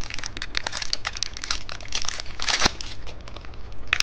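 Plastic candy wrapper crinkling as it is handled and opened, in irregular crackles with one louder burst about two and a half seconds in.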